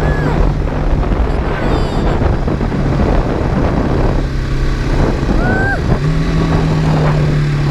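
BMW G310GS motorcycle's single-cylinder engine running at a steady cruise under wind and road noise. The engine note grows a little stronger about six seconds in.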